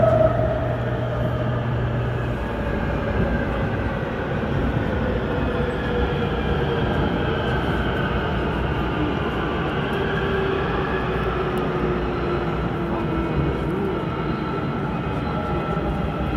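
Airport Railroad electric commuter train running through a tunnel, heard from inside the car: a steady rumble of wheels on rail, with the traction motors' whine slowly falling in pitch as the train slows for an underground station. A low steady hum stops about two seconds in.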